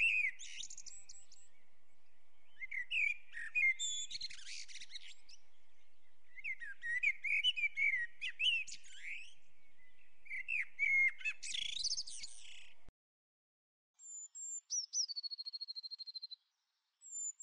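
Birds chirping and twittering in quick, high, gliding phrases. After a short break near the end, a single high whistle slides down into a fast, even trill.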